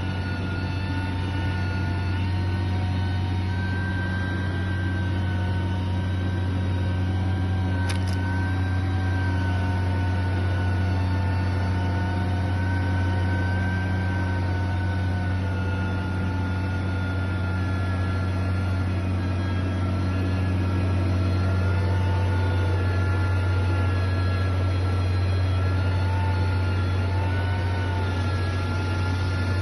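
Heavy construction machine's diesel engine running steadily, with a low hum and faint tones above it that waver slightly in pitch. A single sharp click comes about eight seconds in.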